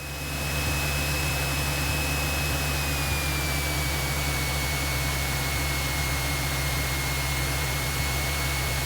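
Light aircraft's piston engine and propeller running at high power in the cockpit, rising over the first half second and then holding steady, with a thin whine that drops slightly in pitch about three seconds in. Power is being run up for a short-field takeoff before the roll begins.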